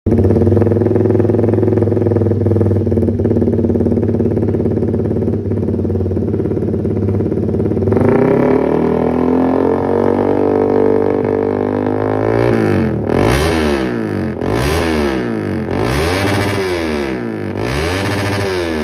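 Honda Sonic 150R's single-cylinder four-stroke engine through a Marpoll GRN-2 racing exhaust: it idles steadily, is revved up about eight seconds in and held higher, then is blipped repeatedly, the pitch rising and falling about once a second.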